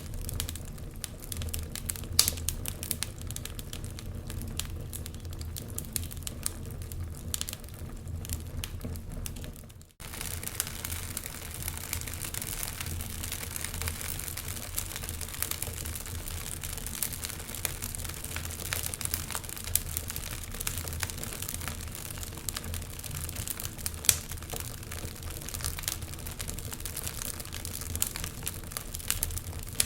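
Wood fire crackling, with irregular sharp pops and snaps over a steady low hum. Near the ten-second mark the sound fades out briefly and cuts back in.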